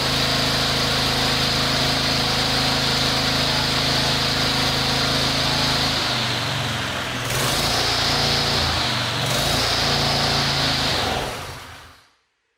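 Briggs & Stratton DOV single-cylinder overhead-valve engine of a KLIPPO Pro 19 lawnmower running steadily, its note shifting briefly a couple of times. Near the end it is switched off and runs down to silence. This is the first shutdown after which the engine will not restart.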